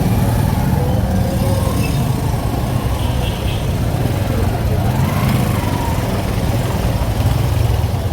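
Street traffic: vehicle engines running steadily, with faint voices mixed in.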